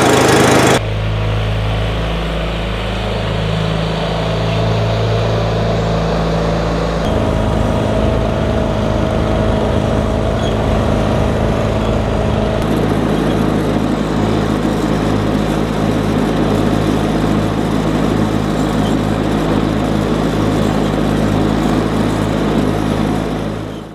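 An engine running steadily at idle, its tone changing abruptly about a second in, again about seven seconds in and once more about twelve seconds in.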